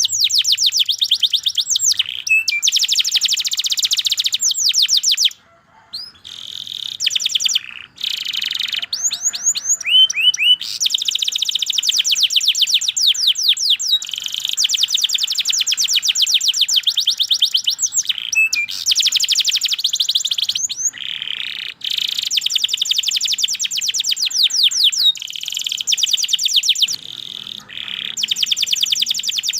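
Domestic canary singing long, fast trills of rapidly repeated high notes, phrase after phrase with only brief pauses.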